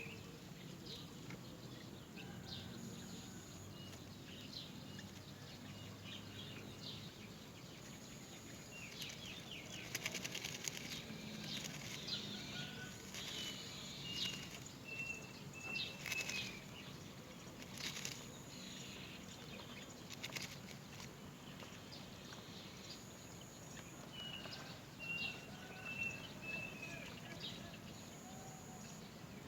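Great myna chicks begging in the nest, with bursts of rustling and wing fluttering through the middle. A run of short, high whistled bird notes comes three times.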